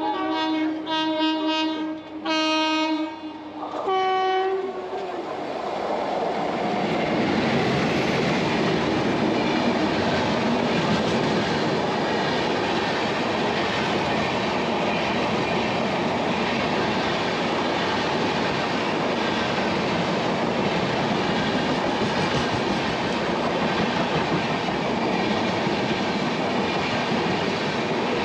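Train horn sounding several blasts in the first few seconds, the last one shorter and higher in pitch, then the steady rush and rattle of the moving passenger coach, which swells over a couple of seconds and holds steady.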